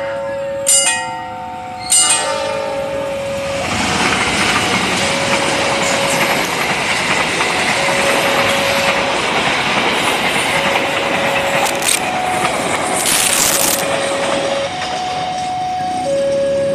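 A level-crossing warning bell strikes a few times, then a passenger train passes at speed: a loud steady rush of wheels on the rails with some clickety-clack, and a short high hiss about two thirds of the way through.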